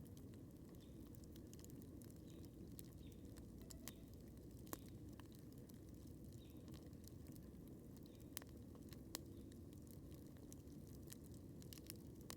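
Wood campfire crackling faintly: scattered sharp pops and snaps, three of them louder than the rest, over a low steady background noise.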